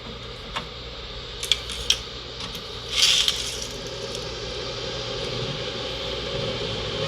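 Keystone evaporative air cooler's fan running with a steady whoosh and low hum that grows louder, with a few light clicks early on and a short rattle about three seconds in.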